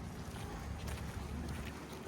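Steady outdoor ambience with a low wind rumble on the microphone and a few faint footsteps of a person walking.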